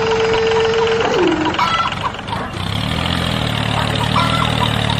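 A cow's long moo ends with a downward slide about a second in. A vehicle engine then runs at a steady idle from about halfway through, with a short high chirp repeating every couple of seconds.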